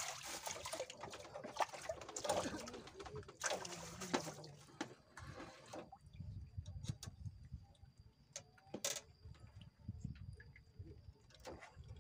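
Water splashing and sloshing in two long stretches over the first six seconds, then scattered sharp clicks and knocks over a faint low rumble.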